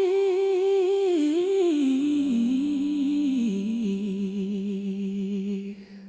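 A female voice hums a wordless note with a slow waver, stepping down in pitch over a held low note, as the soul song fades out near the end.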